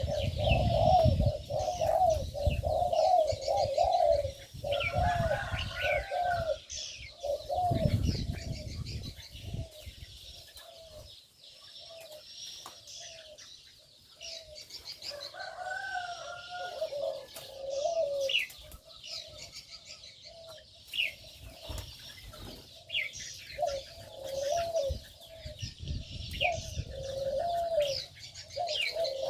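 Aviary birds: doves cooing in repeated low phrases, with smaller birds chirping and twittering above them. A low rumbling noise runs under the first eight seconds or so, then drops away.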